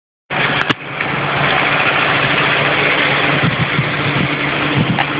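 An engine running steadily with a low hum, after a couple of sharp clicks just as the sound starts.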